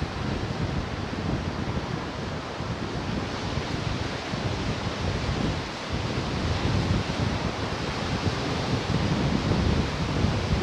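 Pacific surf washing in continuously, a steady rushing wash with a low rumble that swells somewhat in the second half, with wind buffeting the microphone.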